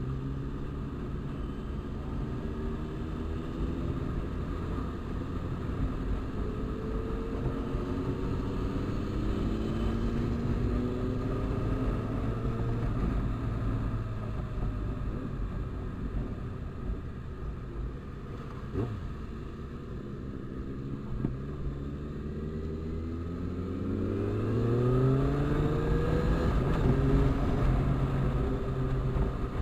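Motorcycle engine running while riding, its pitch rising as it accelerates in several climbs, once through the middle and again strongly near the end.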